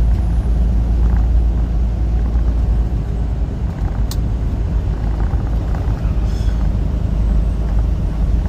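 Steady low drone of a semi truck's diesel engine and road noise, heard from inside the cab while cruising, with a brief click about four seconds in.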